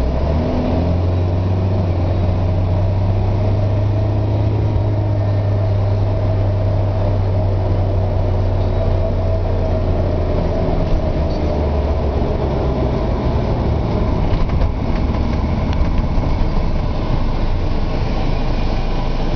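Car engine pulling hard under full throttle (kickdown), heard from inside the cabin together with road noise. A strong low drone sets in near the start and drops in pitch about eleven seconds in.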